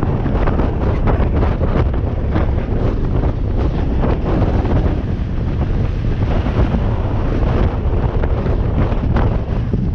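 Strong wind buffeting the microphone: a loud, gusty rumble with no steady tone.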